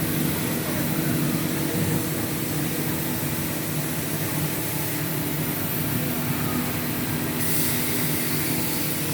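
5-axis CNC router running on wood: a steady machine hum with a broad hiss over it. About seven and a half seconds in, a higher hiss comes in and holds.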